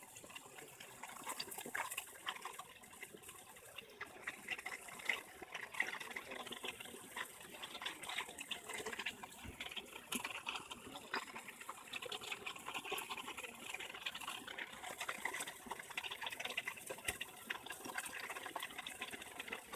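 Water splashing and trickling, faint and irregular, with many small splashes: Japanese macaques playing in the water.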